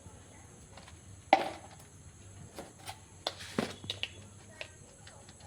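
Kitchen utensils knocking and clinking while spices are spooned onto chicken. One sharp knock with a short ring about a second in, then several lighter taps and clicks a couple of seconds later.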